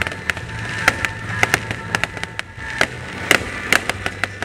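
Aerial fireworks bursting overhead: an irregular series of sharp bangs and crackles, more than a dozen across the few seconds, over a steady low background.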